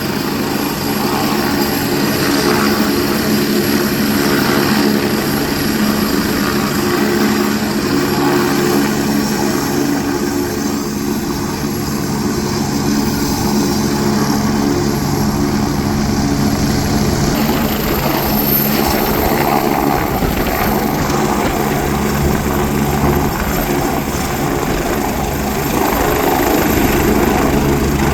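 Helicopter engine and rotor running steadily at a constant loud level.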